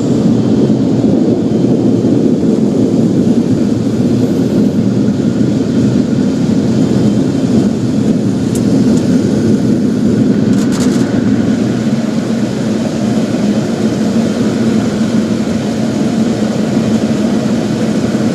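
Automatic car wash equipment running: a loud, steady low roar with no break.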